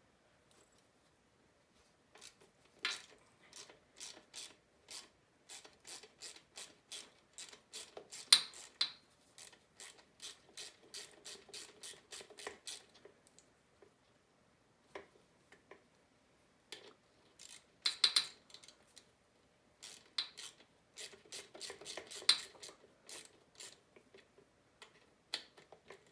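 Ratchet wrench clicking in runs of evenly spaced clicks as bolts are worked on a small dirt bike, with a few louder metallic knocks of tools and parts.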